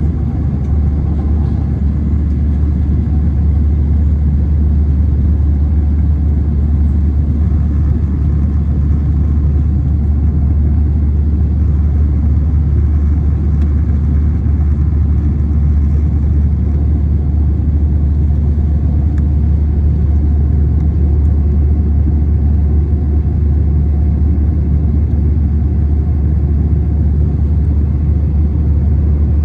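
Steady, unbroken low rumble of an Airbus A321 airliner heard from inside the passenger cabin: engine and airflow noise.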